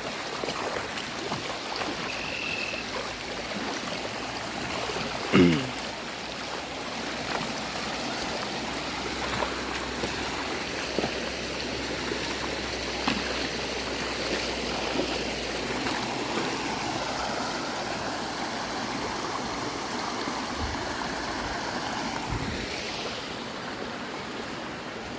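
River in flood after heavy rain, its fast water rushing steadily. About five seconds in, a brief loud sound falls sharply in pitch.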